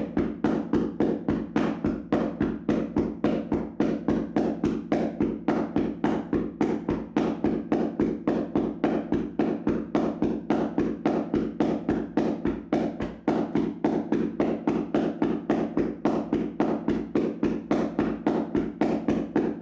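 Tapping massage: hands slapping rapidly and evenly on a person's body, about four to five dull slaps a second, without a break.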